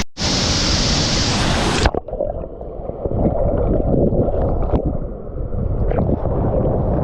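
Waterfall roaring as a loud, even rush, cut off abruptly about two seconds in. A lower, rumbling noise with wind buffeting the microphone takes over.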